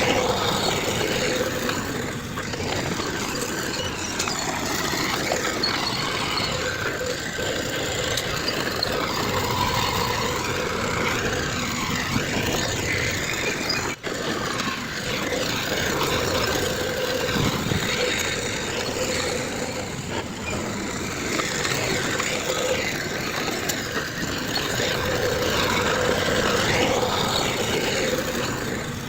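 Diesel engines of heavy earthmoving machines running steadily under work, with a momentary break in the sound about halfway through.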